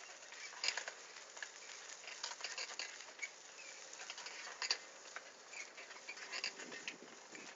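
Bicycle ridden over a rough forest dirt track: a steady hiss with many irregular clicks and rattles.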